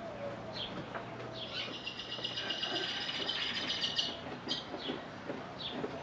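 Small birds chirping, with a rapid high trill from about a second and a half in until about four seconds in, and a few light clicks and taps.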